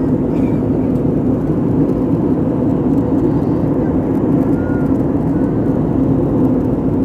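Steady drone of an airplane heard inside the cabin: engine and airflow noise, even and unbroken, heaviest in the low-middle range.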